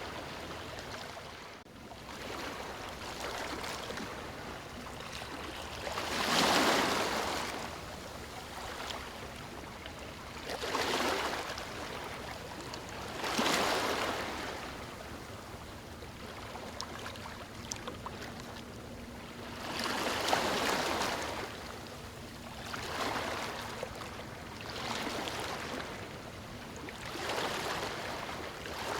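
Small waves washing onto a beach: a steady hiss of water that swells louder and fades away every few seconds.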